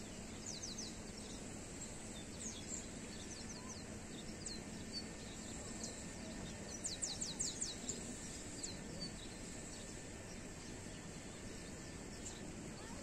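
A bird gives quick runs of high, falling chirps several times, the loudest run about seven seconds in, over steady outdoor background noise.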